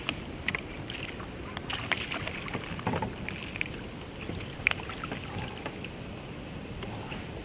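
Water splashing and small knocks around a kayak on the river: irregular sharp splashes and clicks over a steady rushing background, with the loudest about two, three and nearly five seconds in.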